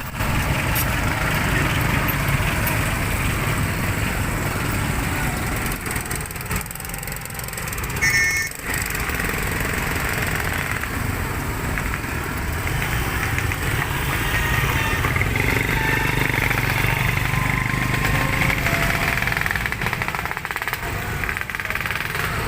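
Long freight train running through a station, a steady low rumble throughout, with a brief high tone about eight seconds in.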